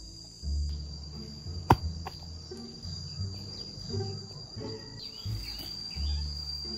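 Steady high-pitched insect drone in the trees, over low background music. A single sharp knock about a second and a half in is the loudest sound.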